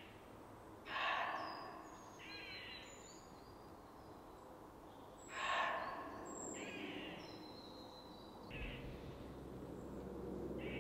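Woodland birds calling: two louder calls about a second in and about five seconds in, with shorter, higher warbling calls between them. A low steady hum comes in near the end.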